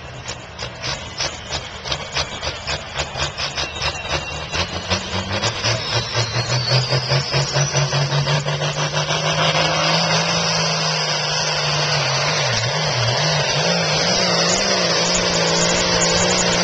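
Ford 9600 tractor's diesel engine working hard under load while pulling a sled. It starts as a quickening pulse as the revs and loudness build, then settles into a steady high-revving run.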